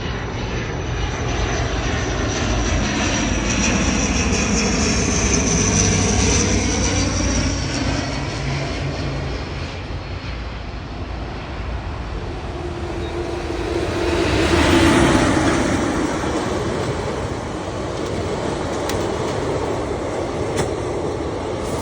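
Indian Railways WAP-4 electric locomotive hauling an express passenger train past: a steady rumble of the train with a whine that bends in pitch over the first several seconds. The sound swells about fifteen seconds in, then settles back into a steady running rumble.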